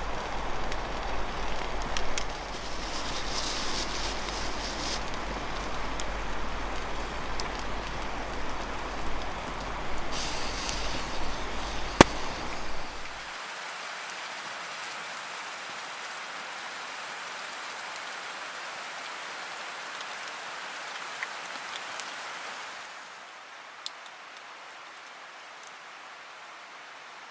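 Food sizzling over a wood campfire: a steady hiss with scattered crackles and one sharp pop. About halfway through it changes to a quieter, thinner hiss.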